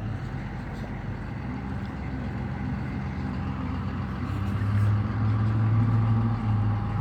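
An engine running with a steady low hum, growing louder about two-thirds of the way through.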